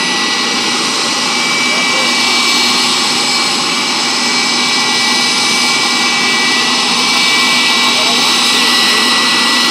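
Pratt & Whitney JT8D low-bypass turbofan running steadily on an engine test stand: a loud, even rush of jet noise with a steady high-pitched whine over it.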